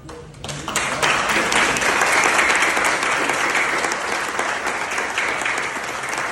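A crowd applauding. The clapping swells in over the first second, then stays dense and steady.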